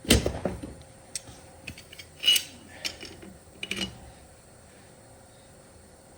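Metal parts and tools clinking and clanking against each other, about five separate knocks with the first the loudest, then quiet room tone.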